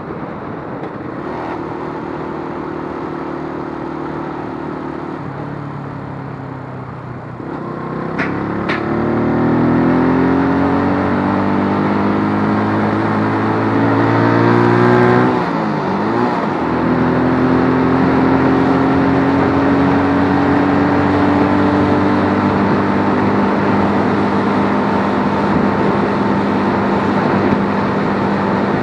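Keeway RKF125 motorcycle's 125 cc single-cylinder engine running steadily, then revving up with a steadily rising note for about eight seconds. About halfway through the pitch drops sharply, and the engine then holds a steady note. There are two short clicks just after the revving begins.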